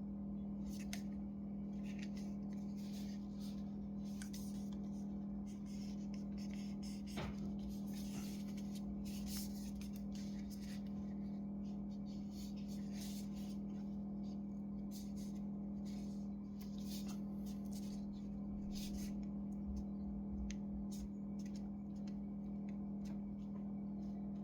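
Light scraping, rubbing and clicking of hands and small tools working on a laptop's case and internal parts, in irregular short strokes, over a steady low hum.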